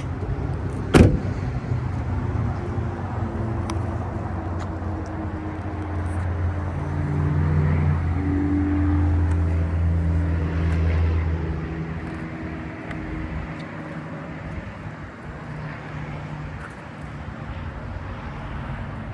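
A single sharp slam about a second in, a van door or panel being shut. After it comes the low, steady hum of another vehicle's engine running, which grows louder through the middle and then fades.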